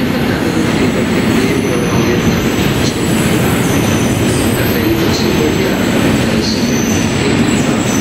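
A train running on the rails: a loud, steady rumble of wheels and running gear, with a faint high-pitched wheel squeal flickering over it.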